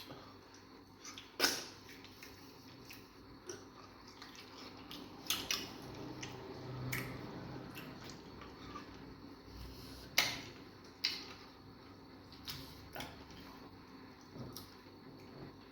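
Eating sounds of fufu with egusi soup: scattered sharp clicks and smacks with soft wet squishing, the loudest about a second and a half in and again about ten seconds in.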